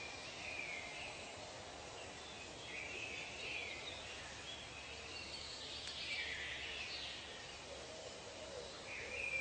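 Tropical nature ambience: a steady background hiss with bird calls coming and going, strongest a little past the middle and near the end.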